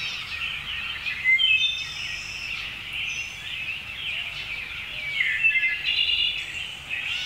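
Small birds chirping and singing continuously, with several short high whistled trills.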